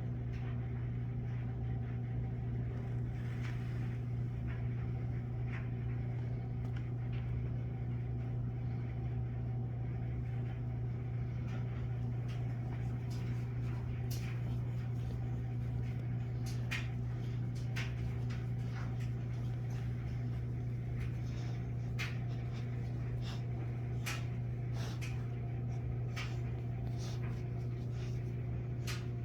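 A steady low hum, with scattered light clicks and rustles from about eleven seconds in.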